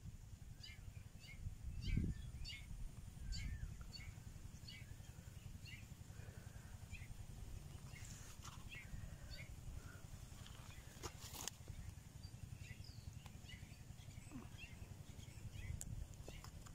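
Small birds chirping: many short, high, quick calls, most frequent in the first half, over a steady low rumble like wind on the microphone. A low thump about two seconds in.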